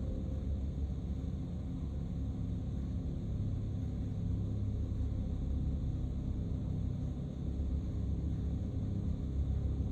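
Steady low rumble of a car driving, with road and engine noise and no sudden events.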